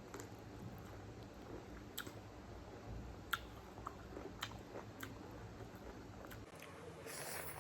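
Close-up chewing and mouth smacks of a person eating spicy instant fire noodles, with scattered sharp clicks, the loudest about three seconds in. A short breathy hiss comes near the end.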